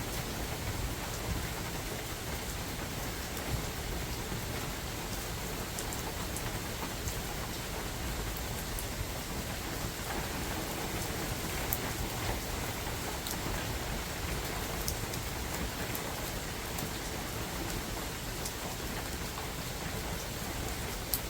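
Steady spring rain falling in a forest, a continuous hiss with scattered sharp drops ticking close by, and a low rumble underneath that may be wind.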